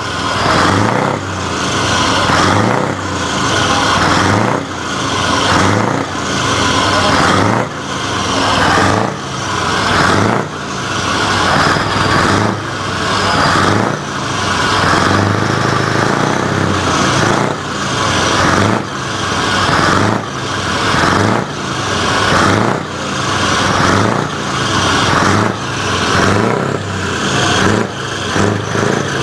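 Scania 144L 530's 14-litre V8 diesel with a straight exhaust, revved over and over: the engine note climbs and falls back about every second and a half, loud throughout.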